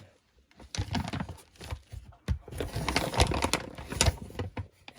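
A dog chewing a soft joint-supplement chew: an irregular run of wet clicks and crunchy smacks that lasts about four seconds.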